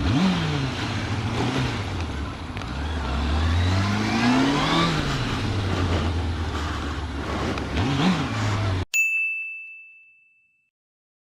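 Motorcycle engine revving up and falling back several times, the longest climb a few seconds in, over a steady rush of wind noise. Near the end the sound cuts off abruptly, a single high ding rings and fades, and then there is silence.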